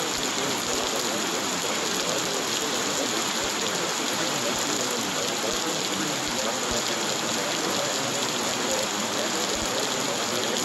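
Steady, continuous rain falling, a recorded rain soundscape with no change in level.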